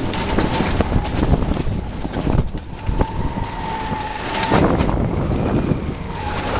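A vehicle on the move: a steady low rumble with frequent rattles and knocks, and a steady high whine that drops out for a while and comes back near the end.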